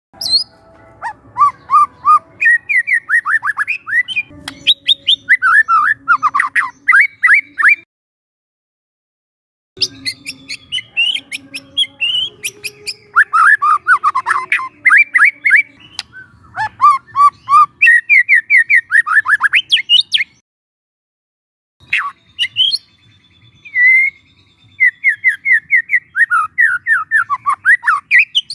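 Young white-rumped shama singing: rapid runs of sweeping, chattering whistled notes. The song comes in three long bursts, cut off by two short silences about eight and twenty seconds in.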